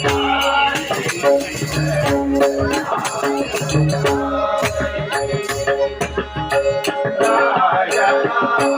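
Traditional Marathi bhajan music: steady held notes, which sound like a harmonium, over a dense beat of drum strokes and jingling percussion, with singing voices rising in places.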